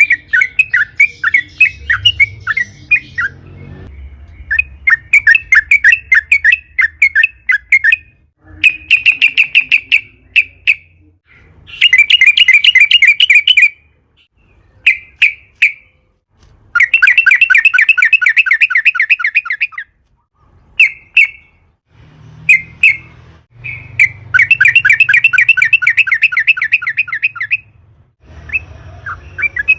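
Yellow-vented bulbul singing in long rapid rolls: fast runs of repeated chattering notes, several a second, in bouts of one to three seconds separated by short pauses.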